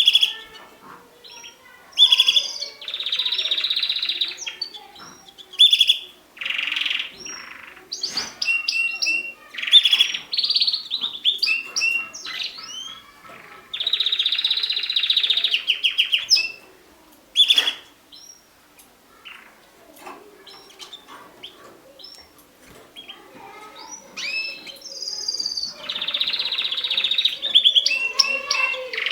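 Mosaic canaries singing and chirping: several long phrases of fast, rattling trills lasting one to three seconds each, broken up by sharp single chirps and short calls.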